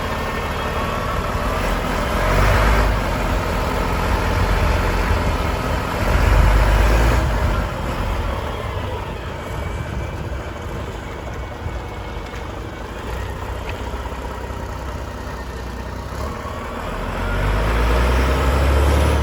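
Scania P93M fire truck's diesel engine running. It swells louder and falls back several times, about two seconds in, around six seconds in, and again near the end.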